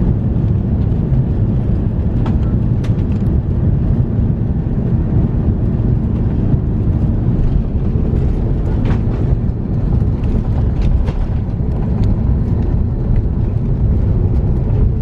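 Cabin noise aboard an Airbus A330-300 airliner: a loud, steady low rumble of the engines and airflow, with a few light clicks and rattles from the cabin fittings.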